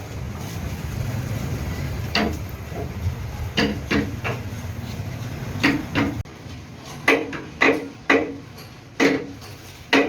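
A series of sharp knocks, about a dozen at irregular spacing, each ringing briefly like tools striking a hard workpiece. They sit over a low hum that cuts off about six seconds in.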